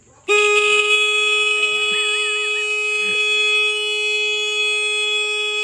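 Car horn pressed and held in one long, steady blast of about five seconds, starting abruptly and cutting off sharply when released.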